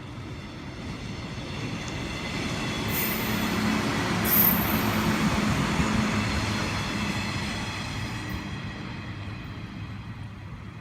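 Electric train passing through. Its running noise swells to a peak about four to six seconds in and then fades away, with faint steady high tones and two brief high hisses near the loudest point.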